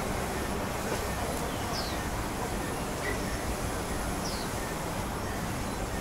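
Steady low rumble of background noise, with a few short, high bird chirps that fall in pitch, spaced a second or two apart.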